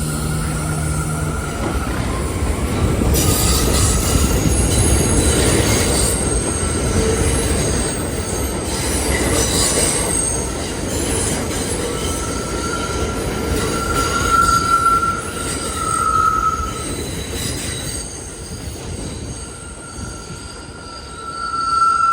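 R179 subway train moving through the station, its wheels squealing on the rails over a steady rumble. High squeals come and go, loudest around the middle and again near the end.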